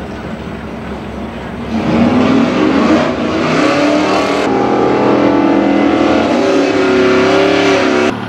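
Steady background noise, then about two seconds in a race car's engine starts running loud with a revving, wavering pitch. It cuts off abruptly just before the end.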